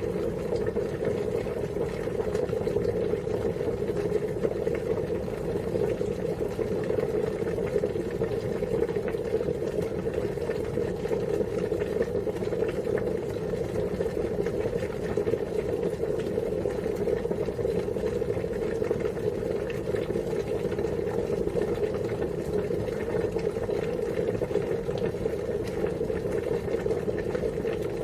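Water boiling at a steady rolling boil: a dense, even bubbling rumble.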